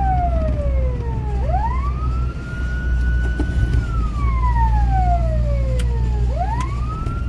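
Fire engine's wail siren: the pitch climbs quickly, holds high, then slides slowly down, going through this cycle about one and a half times, over the truck's steady low engine rumble.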